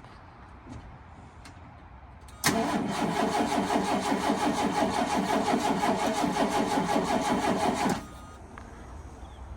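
A 1983 Ford F-150's 300 inline-six is cranked over by the starter for about five and a half seconds in an even, rhythmic churn, then stops abruptly without the engine catching. This is a cold start at around freezing, and the engine will not fire without help such as ether.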